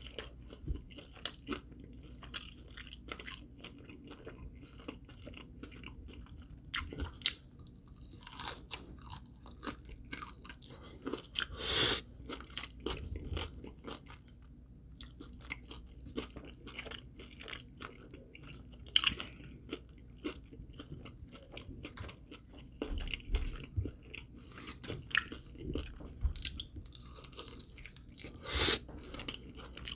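A person chewing and biting into crispy fried chicken wings close to the microphone. Irregular crunches and mouth clicks run throughout, with a few louder bites scattered among them.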